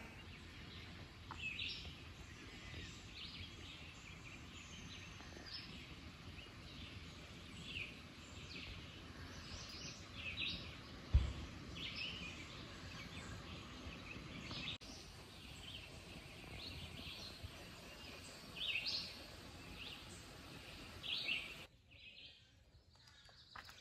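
Birds calling in woodland: short, bright chirps every second or two over a steady background hiss, with a single low thump about eleven seconds in.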